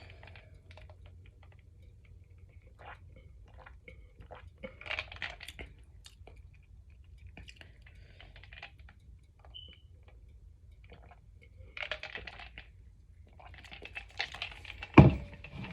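Quiet sipping and tasting of a flat-tasting peach Coca-Cola: scattered soft mouth clicks, smacks and handling noises, with one sharper knock about a second before the end.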